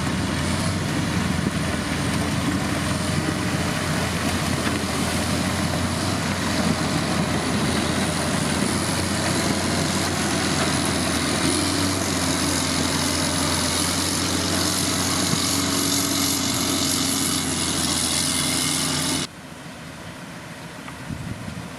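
Heavy road-building machine's engine running steadily, with a high, slightly wavering whine above it. The sound drops away abruptly about two and a half seconds before the end.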